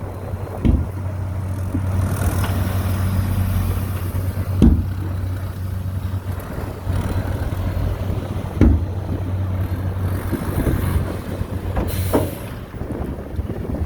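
Heavy diesel earthmoving machine engine running steadily, with four short sharp knocks spread through it.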